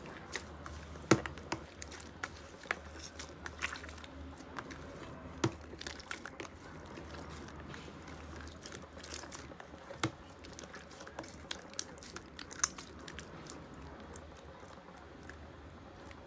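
Slime being squeezed and worked by hand, giving irregular small clicks, pops and crackles.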